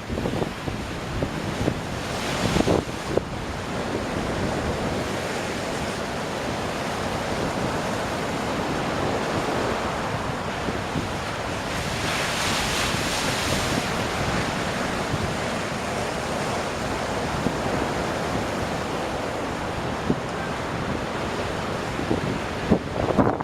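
Atlantic surf breaking on a rocky shore: a continuous rush of crashing waves and wash, with louder, hissing surges about two seconds in and again around the middle. Wind buffets the microphone.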